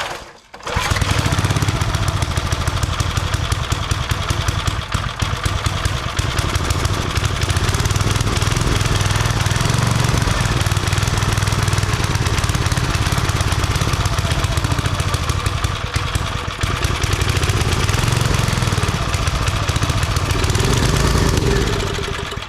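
Old 5 hp Briggs & Stratton single-cylinder engine on a wood splitter, running steadily on choke. It will only run on choke, a sign that its carburettor probably needs cleaning.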